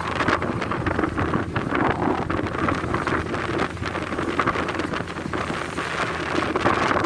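Wind buffeting the microphone in irregular gusts, a continuous rough rushing with crackling bursts.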